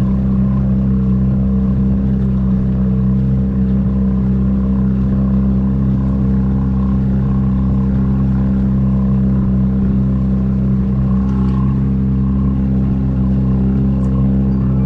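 A vehicle engine running at a steady speed, giving an even, unchanging drone.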